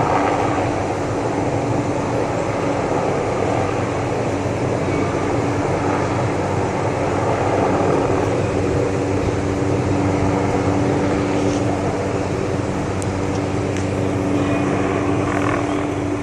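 Helicopter working a suspended tree-trimming saw along power lines: a steady drone with a constant hum.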